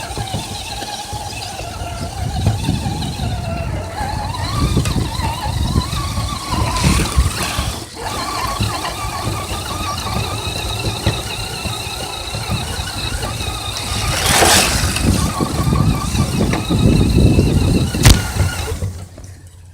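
A radio-controlled car running, its motor whining and drifting up and down in pitch over heavy low rumbling. There is a sharp click near the end, and then the sound falls away.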